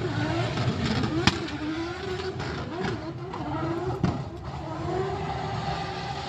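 Car engines running and revving, their pitch rising and falling, with two sharp knocks about one and four seconds in.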